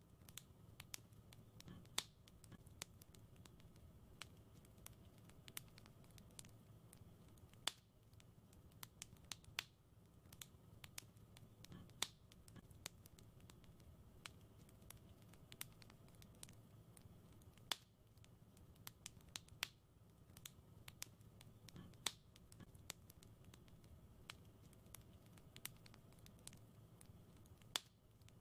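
Wood fire crackling in a fireplace: scattered small snaps and pops over a low, steady rumble, with a sharper, louder pop every few seconds.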